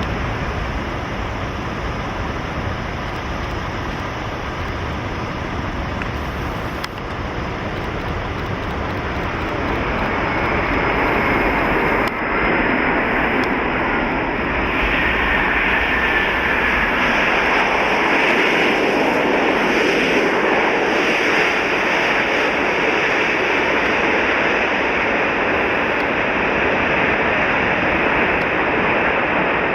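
Heavy jet airliner's turbofan engines growing louder as it comes in to land, with a faint whine that falls in pitch as it passes. Low wind rumble on the microphone is strongest in the first third.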